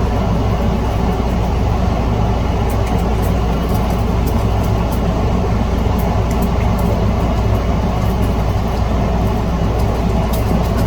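Steady mechanical hum with a constant whir, like a fan or motor running, and a few faint small ticks.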